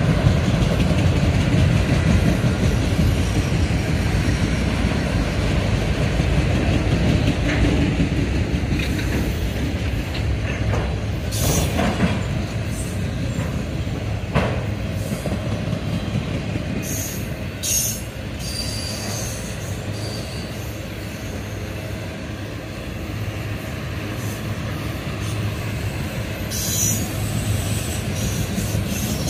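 Freight train of autorack cars rolling past: a steady rumble and clatter of steel wheels on rail, with a few sharp clanks and brief high-pitched wheel squeals now and then.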